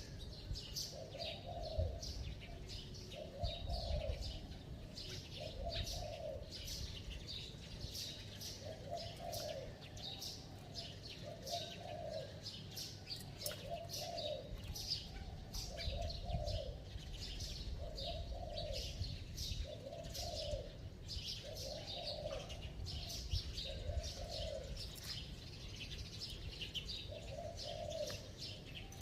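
Spotted dove cooing, short low coos repeated about every second and a half in the fast 'gù' style. Quick high chirps of small birds run over it.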